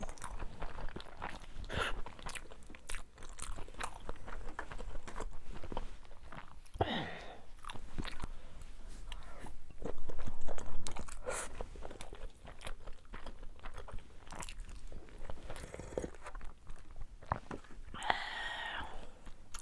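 Close-miked chewing and crunchy bites, with many small wet clicks and a louder stretch about ten seconds in.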